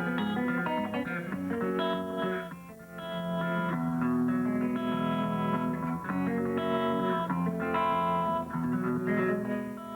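Thumbpicked guitar playing: picked melody notes over a bass line, with a brief dip in loudness about two and a half seconds in.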